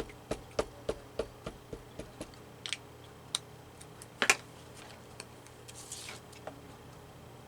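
A run of small, irregular clicks and taps from handling paper cutouts and craft tools on a work table, with a louder click about four seconds in and a brief soft paper rustle near six seconds.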